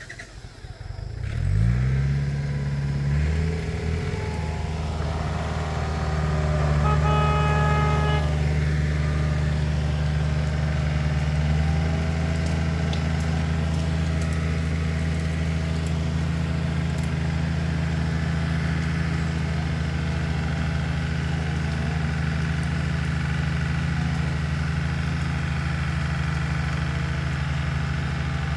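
Tractor diesel engine revving up about a second in, then running steadily at high revs, with a higher whine for a few seconds soon after.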